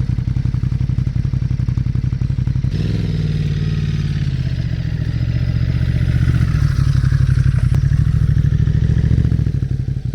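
Motorcycle engine running with an even, rapid pulse; about three seconds in the revs rise and then hold steady.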